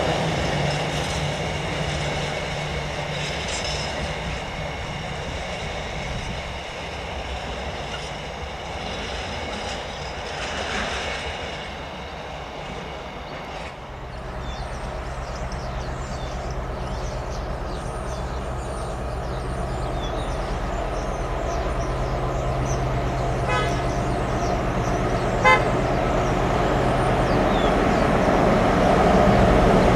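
A freight train passing, with steady high tones over the rumble that fade away, then a diesel freight locomotive's engine running steadily and growing louder as it approaches from about halfway through.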